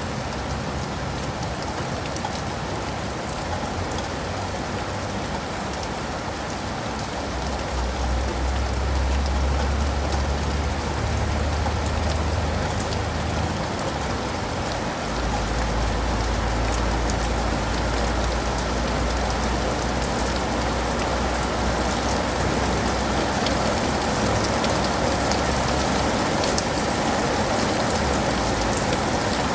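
Steady rain falling, an even dense hiss of drops. A deep low rumble joins in about a quarter of the way through and runs on in long stretches, and the rain grows a little louder with it.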